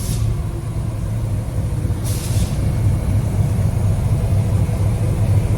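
Locomotive engine running with a steady low drone, heard from inside the cab. Two short hisses of air come from the train's air brake system, one right at the start and one about two seconds in.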